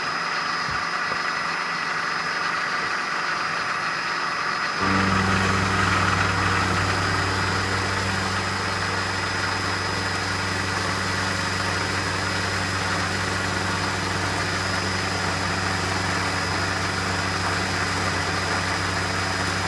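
Metalworking machine running steadily with its spindle at 1450 RPM. About five seconds in, a deeper, louder hum starts and carries on as the machine takes a cut.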